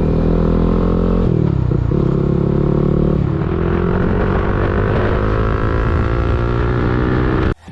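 CFMoto NK 250 single-cylinder engine breathing through an Orion full-system aftermarket exhaust, running under way. The pitch dips about a second in and drops again around three seconds, then climbs steadily as the bike accelerates. The sound cuts off abruptly near the end.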